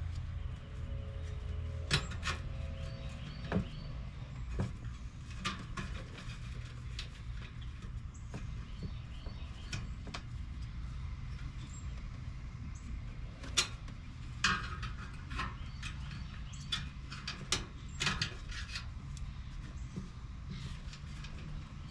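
Scattered clicks and light knocks of hands working wires and small parts into place during a condenser fan motor swap, over a steady low hum.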